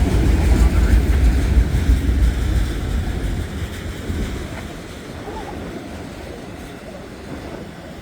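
Strong wind gusting on the microphone, a heavy low rumble that eases off about four seconds in, over the steady rolling noise of a long autorack freight train passing.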